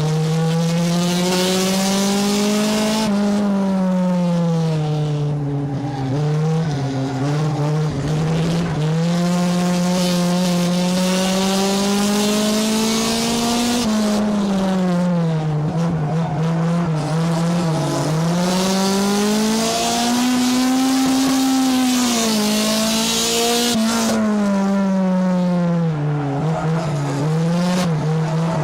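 Race car engine heard from inside the car on a circuit. It climbs in pitch, then drops and wavers, then climbs again, about every ten seconds, as the driver accelerates and lifts on each lap. A hiss of wind and tyre noise swells as the car speeds up.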